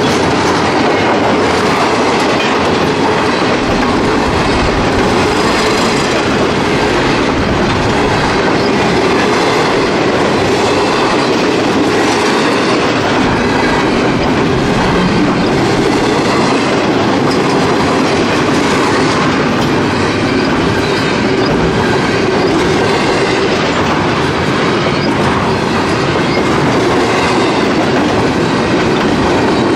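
Train cars rolling past on the rails: a loud, steady rumble and rattle of steel wheels on track that keeps up without a break.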